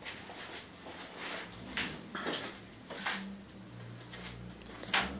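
A handful of light knocks and scraping rustles at irregular spacing, about six in five seconds, the sharpest near the end, over a faint low hum.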